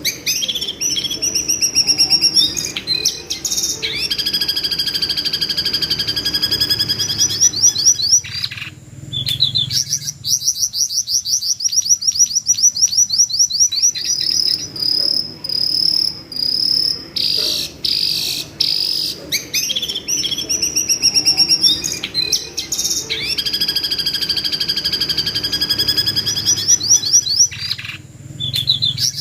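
Jongkangan bird screeching in long, fast series of shrill repeated high notes, a bird-call recording played in a loop as masteran training audio for a white-rumped shama; the sequence comes round again about two-thirds of the way through.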